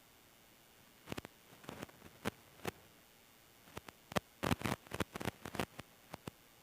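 Irregular sharp clicks and taps, in a small cluster about a second in and a denser run from about four to six seconds in.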